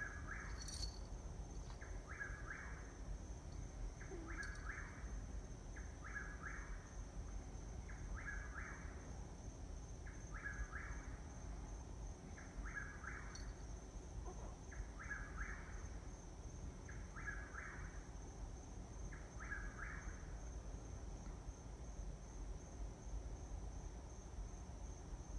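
A bird repeating the same short two-part call about every two seconds, some ten times, then falling silent near the end.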